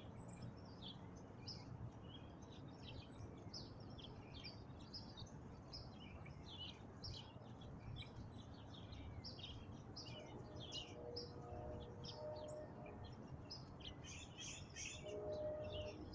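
Several small birds chirping and singing in quick short notes throughout, with faint steady low tones joining in the second half.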